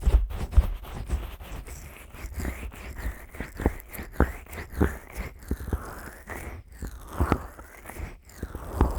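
Fingers slick with petroleum jelly rubbing and pressing on the silicone ear of a 3Dio binaural microphone. The result is close, wet, sticky rubbing strokes about once or twice a second, with scattered sharp clicks.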